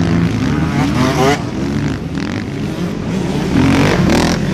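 Motorcycle engine running steadily, with brief wavering higher-pitched sounds over it about a second in and again near the end.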